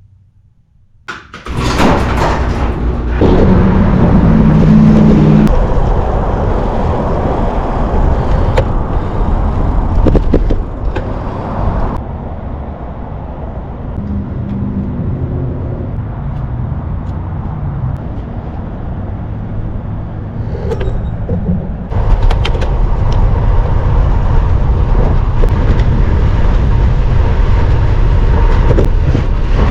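Wind rushing over the microphone with road and tyre noise while riding a road bike. It eases about twelve seconds in and grows louder again about twenty-two seconds in.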